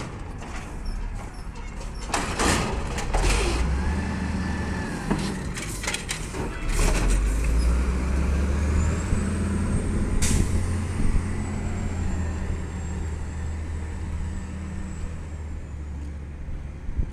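Garbage truck's diesel engine running, with several sharp bangs or hisses in the first ten seconds. A faint high steady whine runs through the middle.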